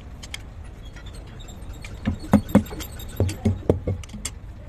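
A run of about eight sharp knocks in two quick groups, starting about halfway in, over a steady low hum.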